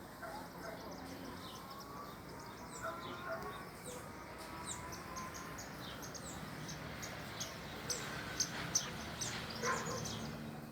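Birds chirping: many short, high calls and quick downward sweeps, coming thicker and more regularly in the second half.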